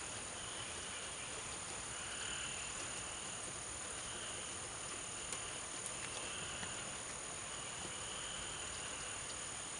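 Night chorus of frogs and insects: a short call repeats about once a second over a steady high-pitched insect drone.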